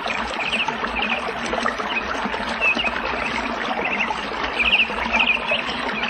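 Birds chirping in quick clusters of three or four short notes, about once a second, over a steady rushing noise.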